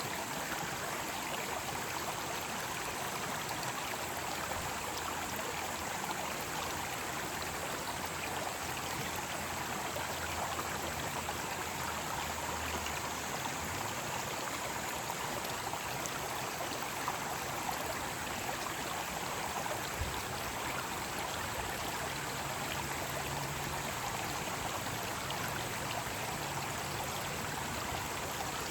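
Mountain stream water rushing and splashing over rocks in a steady, even wash.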